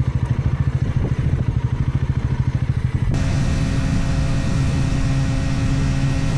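Motorcycle engine running with a quick, even low throb, then about three seconds in an abrupt change to a steady engine drone with rushing wind noise, as when riding at speed.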